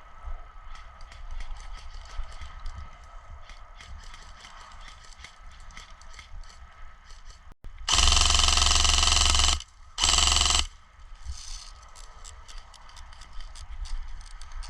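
Two full-auto bursts from an airsoft gun close to the microphone, starting and stopping abruptly: a longer burst about eight seconds in and a shorter one just after, over a low background of faint ticks.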